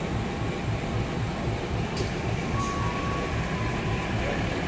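Train rolling along the track at the station: a steady low rumble of wheels on rail. Two short hisses come about two seconds in, and a thin high squeal follows for about a second.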